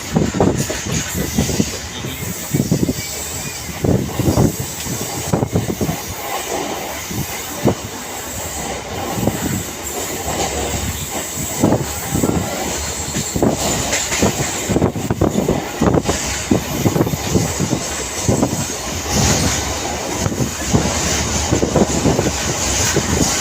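Passenger train running along the track, its wheels knocking over the rail joints again and again over a steady running noise.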